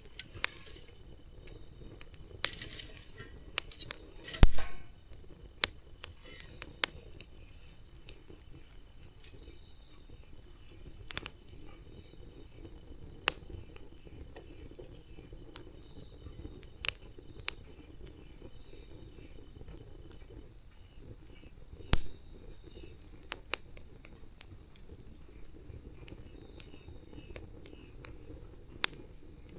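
Wood campfire crackling: scattered sharp pops and snaps over a low steady hiss of burning, with two much louder pops, one a few seconds in and one past the middle.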